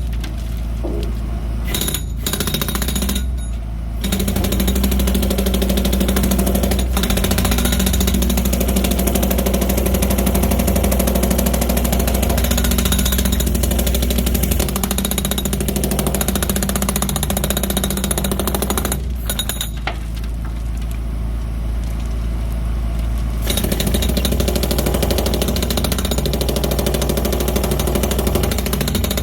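Jackhammer chipping hardened concrete out of a ready-mix truck's mixer drum, a fast continuous hammering over a steady low engine drone. The hammering stops briefly a couple of times near the start and for about four seconds past the middle, leaving the engine running alone.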